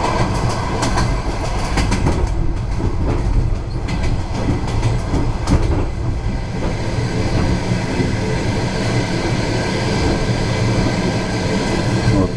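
Passenger train running along the track, heard from inside a carriage: a steady rumble of wheels on rails, with sharp clicks of the wheels over rail joints, most of them in the first half.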